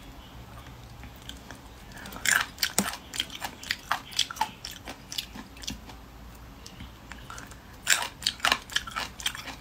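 Crisp crunching and chewing of a cucamelon (mouse melon) in the mouth. The crunches come in two runs: a long one from about two seconds in to past the middle, and a shorter one near the end.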